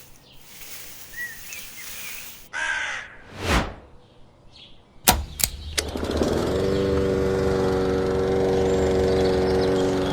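Small electric motor of a DIY toy tractor and chaff cutter switched on with a few clicks about halfway through, then running at a steady hum.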